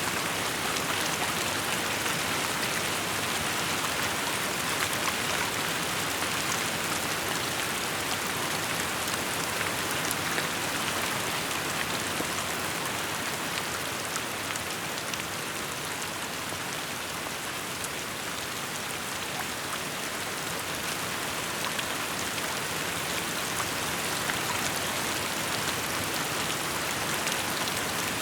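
Steady rain falling and pattering on surfaces, an even hiss with scattered fine drop ticks.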